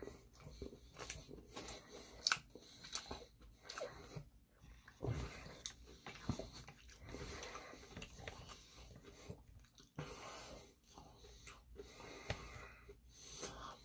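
A person chewing sushi close to the microphone: faint, irregular mouth clicks and chewing sounds.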